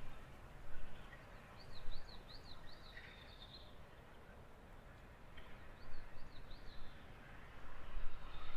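A small songbird gives a quick run of high, looping chirps lasting about two seconds, and a shorter run a few seconds later, over a steady low outdoor rumble.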